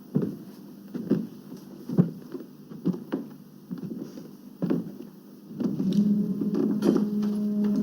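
Footsteps knocking on wooden boards about once a second, with a steady low hum setting in about two thirds of the way through and holding.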